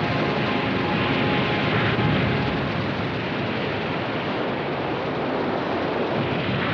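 River rapids: the steady rush of fast whitewater.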